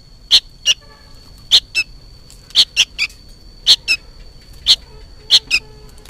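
A juvenile sooty-headed bulbul giving loud, sharp, short chirps, about a dozen in quick clusters of one to three, roughly one cluster a second. The uploader takes the noisy calling for a young bird calling its parent.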